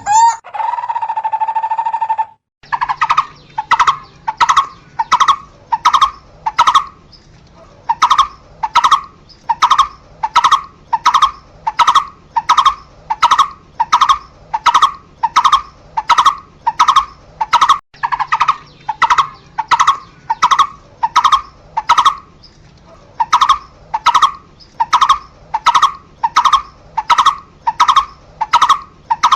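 Barbet calling: a long series of evenly repeated notes, about three every two seconds, broken by two short pauses. It opens with one steady held note of about two seconds.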